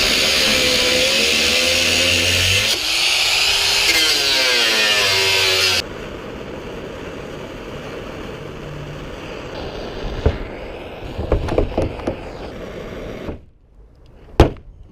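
A handheld power tool running under load, its motor pitch dipping and rising as it bites, cuts off about six seconds in. After it come a few knocks and clanks, with one sharp knock near the end.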